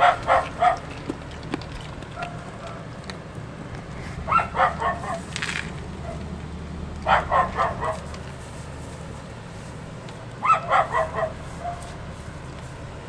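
A dog barking in four runs of quick barks, each of about four or five barks, roughly three seconds apart.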